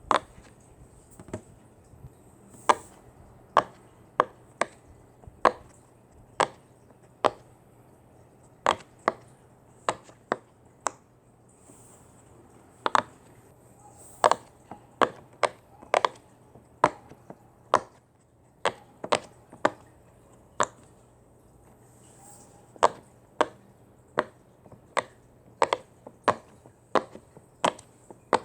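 A long series of sharp single knocks or taps at an uneven pace, roughly one to two a second, with short pauses between runs.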